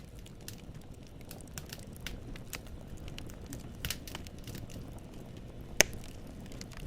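Wood fire in a fireplace crackling, with irregular snaps and pops from the burning logs over a low rumble of flame. A louder pop comes about four seconds in, and a sharp crack, the loudest, just before six seconds.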